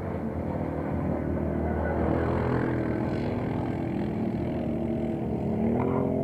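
Quad bike engines running, with one engine's pitch rising as it revs up about four seconds in.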